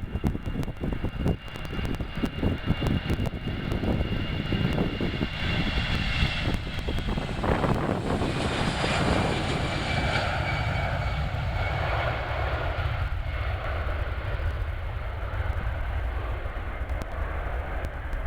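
Jet airliner passing by: engine whine over a deep rumble, building to its loudest about halfway through and then fading away.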